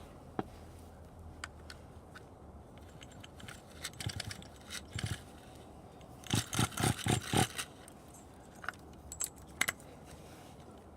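Scattered clicks and light metallic clinking from gear being handled, with a quick run of about six knocks over a little more than a second around the middle.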